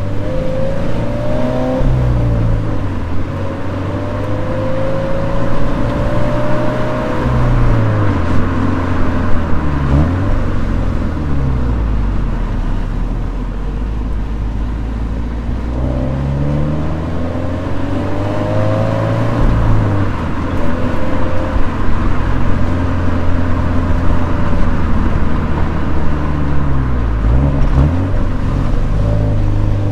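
Toyota 86's 2.0-litre flat-four engine under way on a winding descent, its revs rising and falling again and again, with quick gear changes about a third of the way in, two-thirds of the way in and near the end. A steady rush of tyre and road noise runs underneath.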